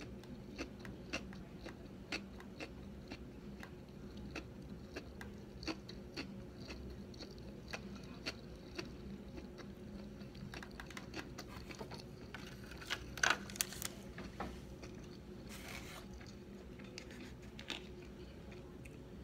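Close-up chewing of a mouthful of sushi roll: soft, irregular wet mouth clicks, with a louder cluster of clicks about two-thirds through.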